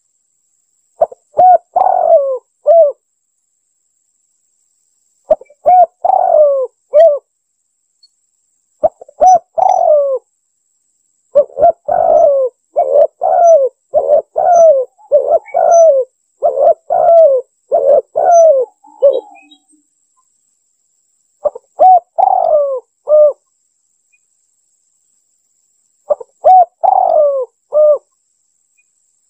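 Spotted dove (tekukur) cooing: bursts of falling coos separated by silent gaps, with a long, faster run of coos in the middle. It is a recorded lure call of the kind played to draw doves in for trapping.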